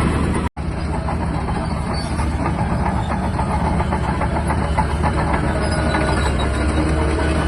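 Shantui DH17-C3 bulldozer's diesel engine running steadily, with constant clanking and rattling from its steel tracks. The sound breaks off for an instant about half a second in.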